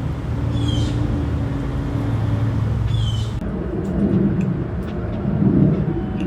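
A low, steady engine hum like a vehicle running, which turns rougher and noisier about three and a half seconds in, with two short, falling high chirps over it.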